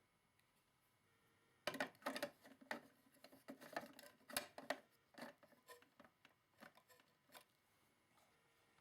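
Irregular clicks and short rustles of objects being handled, starting about two seconds in, densest over the next few seconds, then thinning out.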